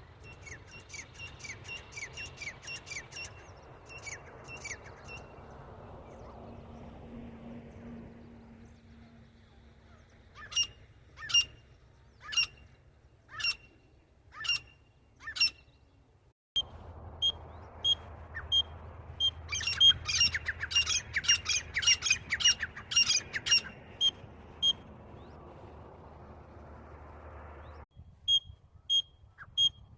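Grey francolin (titar) calling: repeated sharp, high-pitched notes in series, first a fast run, then loud single notes about once a second, then a dense rapid run over steady background hiss. The sound cuts off abruptly twice, as if edited together.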